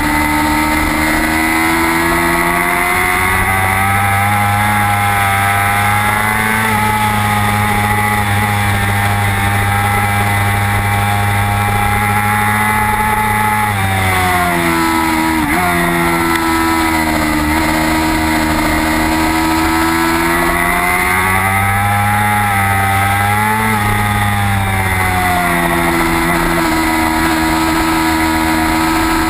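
Racing motorcycle engine heard onboard at full throttle: the engine note climbs and holds high for long stretches, drops sharply about halfway through with a quick blip as the rider brakes and downshifts for a corner, then climbs again, with a shorter dip near the end. A steady rush of wind runs underneath.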